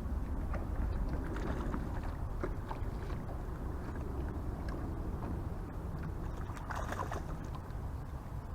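Small boat under way on a lake: a steady low rumble of wind and water, with a few faint knocks and a brief swishing rush about seven seconds in.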